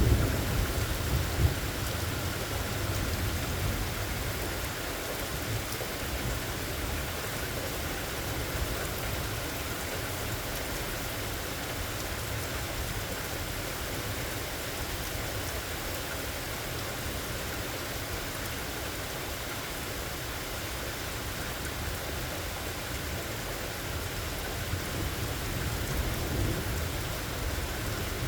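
Steady rain falling through the whole stretch, with a low rumble of thunder that dies away in the first couple of seconds.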